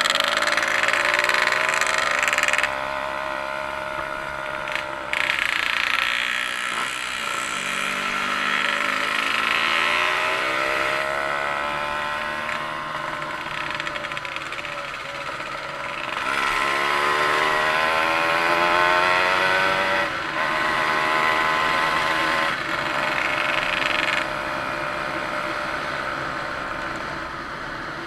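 An engine running throughout, its pitch falling and rising several times as it is revved, with a hissing band that cuts in and out.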